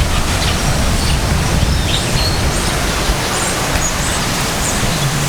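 Wind buffeting the microphone: a steady, loud rush with an uneven low rumble. A few short high chirps sound faintly over it.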